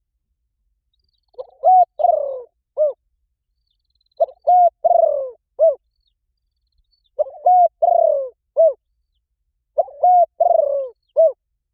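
Spotted dove giving its calling coo, four phrases about three seconds apart. Each phrase is a few short coos with a longer falling note in the middle. This is the 'gáy gọi' call used to draw in wild doves.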